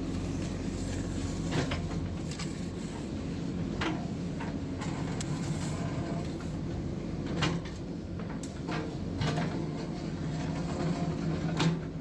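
JCB 3DX backhoe loader's diesel engine running steadily under work, with a series of sharp metallic clanks and knocks from the working gear.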